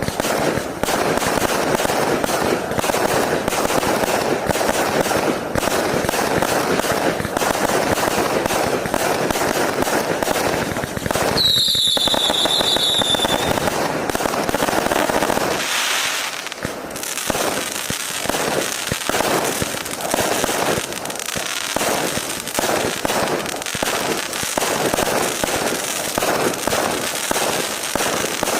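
A 1200-shot, 0.6-inch fireworks cake firing a dense, continuous barrage of shots and crackle. A whistle sounds for about a second and a half around twelve seconds in, and from about seventeen seconds the shots come more separately, a few a second.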